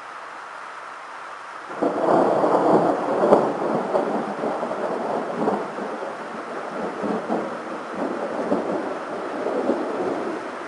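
Thunder: a sudden crack a little under two seconds in, then a long rumble that rolls on, slowly fading, over steady rain.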